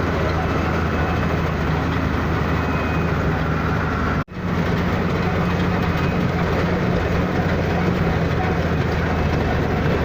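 Heavy construction machine engine running steadily under load, with a low, even hum and mechanical noise; the sound cuts out for an instant about four seconds in, then resumes unchanged.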